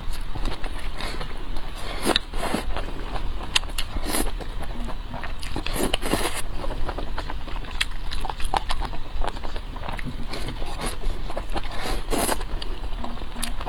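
Close-miked eating: a person chewing, with many irregular crunches, clicks and wet smacks.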